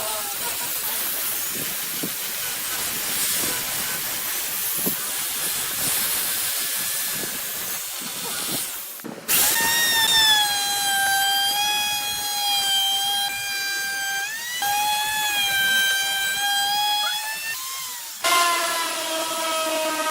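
Woodworking power tools in a workshop, in three edited segments. First comes a steady hiss. After a sudden cut, a high-speed motor gives a loud steady whine whose pitch wavers and dips slightly as it works. Near the end, after another cut, a lower-pitched tool whine starts.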